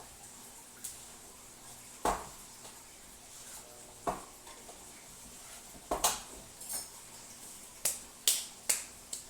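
A knife knocking and scraping against a baking pan while cutting brownies: about ten sharp, irregular clicks and knocks, the loudest about two seconds in and a cluster in the second half.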